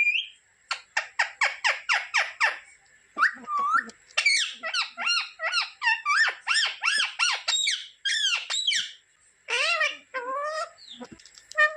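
Pet parrot calling and chattering: a quick run of about eight short, sharp calls in the first couple of seconds, then a long stream of rising and falling whistled chatter.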